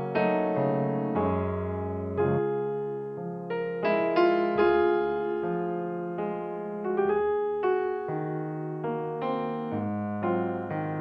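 Background piano music: a slow, gentle melody of single struck notes and chords that ring and fade.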